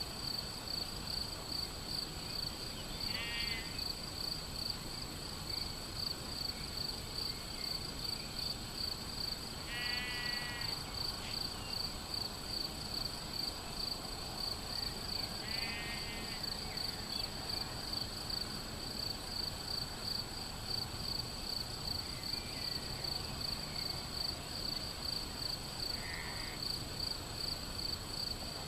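Crickets chirping in a steady, fast-pulsing high trill, with a sheep bleating briefly about three, ten and sixteen seconds in.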